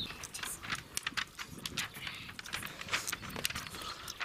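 Footsteps on a stony trail: a run of irregular sharp taps and scuffs, several a second.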